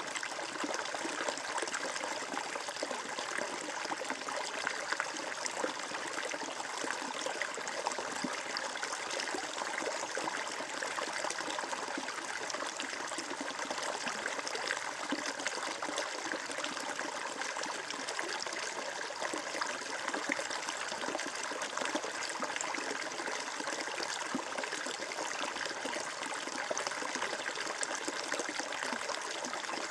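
Flowing water trickling and babbling steadily, as of a small stream running over stones.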